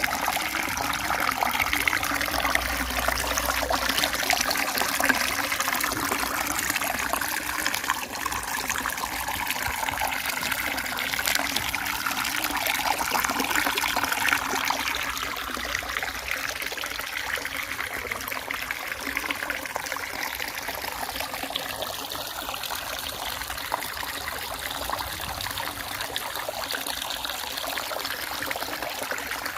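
A small stream of water trickling and gurgling steadily, a little louder in the first half.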